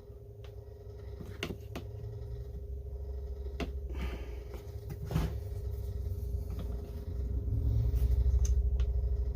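Small clicks and knocks of hands working a chainsaw carburetor and its rubber impulse hose on a workbench, over a steady low hum that swells near the end.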